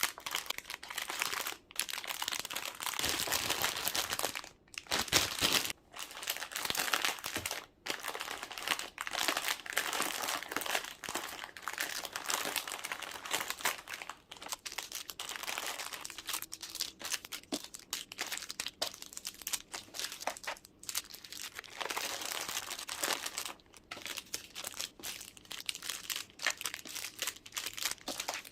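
Plastic packaging crinkling and rustling almost without a break, with brief pauses, as food packs are handled and unpacked.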